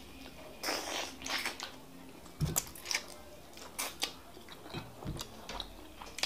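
Close-miked mouth sounds of a person eating fufu and bitter leaf soup by hand: irregular wet chewing and smacking with short sharp clicks.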